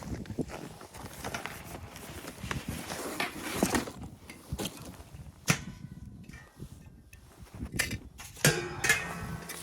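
Irregular knocks, clicks and scuffing, with a few sharp clicks in the second half.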